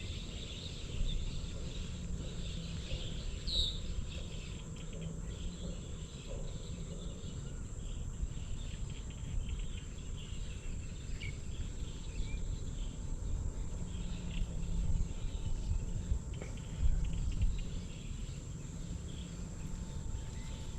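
Steady outdoor insect chorus, with a thin high-pitched whine held throughout, over an uneven low rumble.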